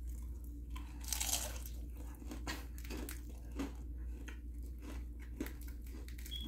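A bite into a piece of crispy Jollibee Chicken Joy fried chicken, with a loud crunch about a second in. Chewing follows, with irregular small crunches and clicks.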